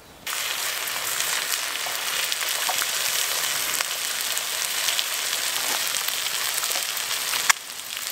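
Food frying on a Robens three-legged cast iron griddle over a wood fire. Egg, sausages, bacon and mushrooms give a steady dense sizzle with small crackles, starting suddenly just after the start, and there is a single sharp click near the end.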